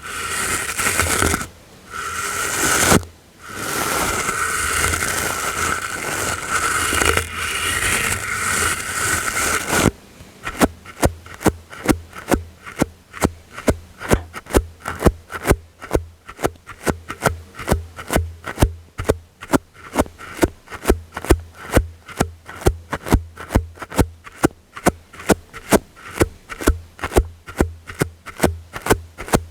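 ASMR brushing: about ten seconds of continuous brushing with two short breaks, then quick, even brush strokes about three a second.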